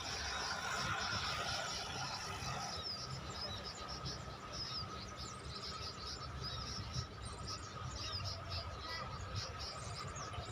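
Birds chirping in quick, rapid calls over a steady insect-like trill.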